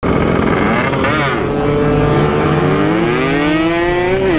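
Two-stroke Yamaha RX King 135cc motorcycle with an aftermarket side-exit exhaust accelerating hard, its engine pitch climbing steadily through the gears, with a brief dip about a second in.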